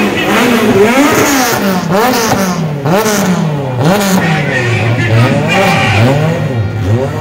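Car engine revved over and over, its pitch rising and falling about once a second and settling lower in the second half, as in stunt driving.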